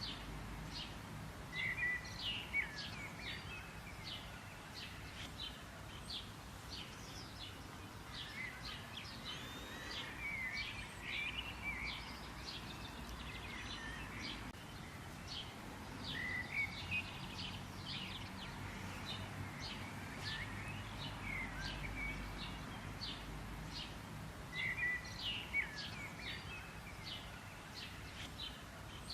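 Small songbirds chirping and twittering continuously in rapid high calls, with louder phrases about two seconds in, around the middle and near the end, over a low steady background rumble.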